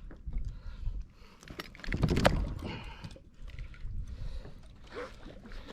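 Scattered knocks, bumps and water splashes on a plastic fishing kayak as a freshly landed yellowfin tuna is handled aboard, with a louder rustling splash about two seconds in.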